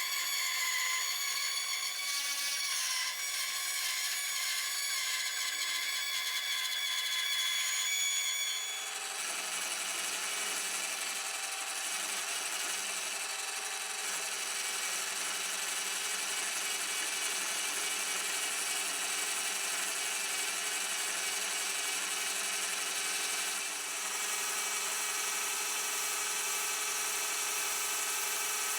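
A small electric power tool running steadily with a high motor whine, likely working on wood; the pitch and tone shift about nine seconds in, then it runs evenly.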